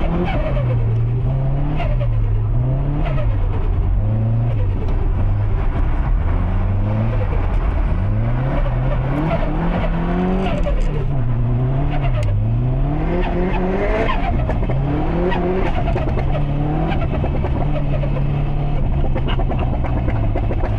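Subaru Impreza STI's built EJ257 turbocharged flat-four being driven hard. Its pitch repeatedly climbs and drops every second or two as the throttle goes on and off.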